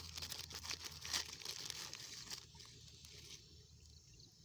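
Plastic packaging crinkling and rustling as a packet of calcium fertiliser powder is handled, irregular and crackly, dying away a little after three seconds in.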